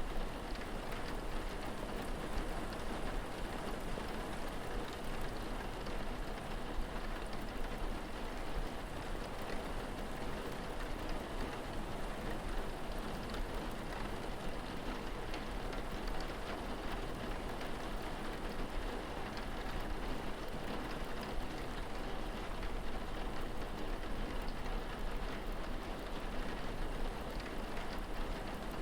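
Steady rain falling, an even dense pattering with no break, over a constant low rumble.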